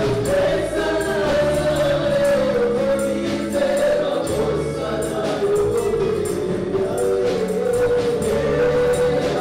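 A choir singing a gospel song, backed by instruments with a steady percussion beat.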